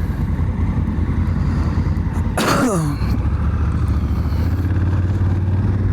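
Honda Africa Twin's parallel-twin engine running at low, steady revs, its note settling a little lower about halfway through. A brief sound that falls in pitch, like a cough or sneeze, cuts in about two and a half seconds in.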